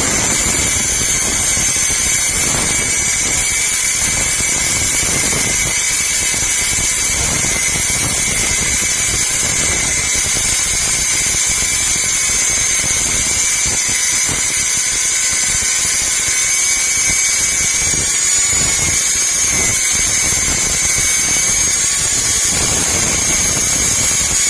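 Angle grinder running steadily with a high whine, cutting off the mushroomed end of a screw so that the screw can be drawn out.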